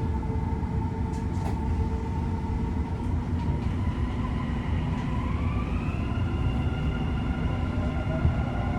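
Dubai Metro Red Line train pulling away from a station, with a steady low rumble. About five seconds in, the traction motors' whine starts to rise in pitch as the train gathers speed.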